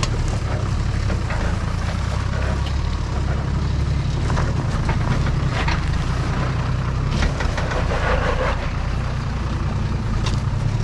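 Four-wheel-drive engine running steadily under load as the vehicle crawls over a rocky ledge, with scattered clicks and knocks.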